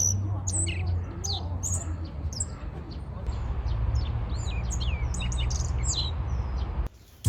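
Small wild birds chirping: many short, high, quick calls that sweep downward, coming in clusters, over a steady low rumble. The sound cuts off abruptly near the end.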